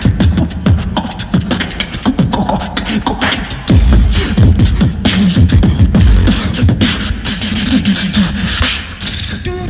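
Competitive beatboxing on a microphone: fast clicks and snare hits over deep sliding bass, with the bass dropping in much heavier about four seconds in.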